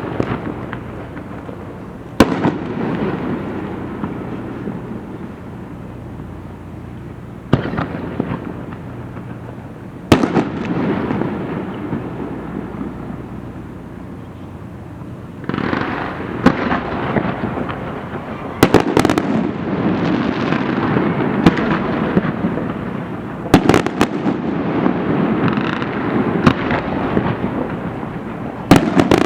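Aerial fireworks shells bursting: sharp booms every few seconds, each followed by a long rolling echo. From about halfway through the bursts come thicker, with a dense crackling that carries on between them.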